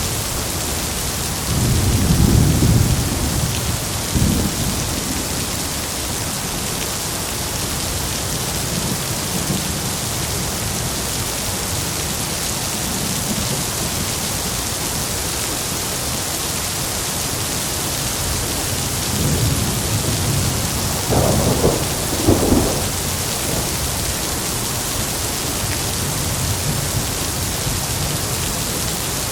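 Heavy rain falling steadily, with rolls of thunder: one low rumble a couple of seconds in, and another about twenty seconds in that breaks into sharper cracks.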